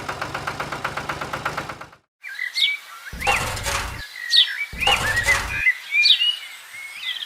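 Small birds chirping, with repeated short chirps rising and falling in pitch, broken twice by a noisy burst about a second long. Before the chirping, a fast, even ticking over a low hum runs for about two seconds and cuts off suddenly.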